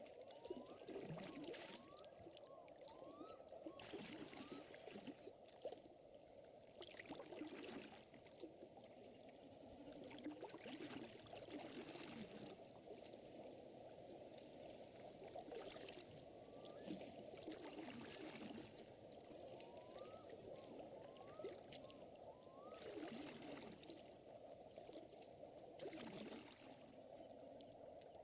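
Soft lake water lapping and trickling, with faint fire crackles. Twice, a few seconds in and again about twenty seconds in, an animal gives a short run of four or five small rising chirps.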